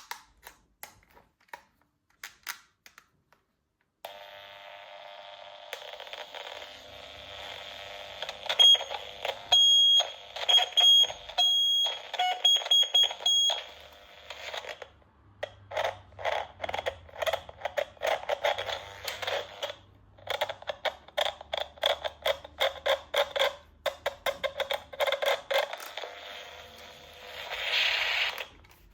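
Electronic sound effects from a battery-powered toy gun. A few handling clicks come first. About four seconds in a buzzing tone starts, with high beeps over it for several seconds, then a rapid stuttering pulse runs on for over ten seconds.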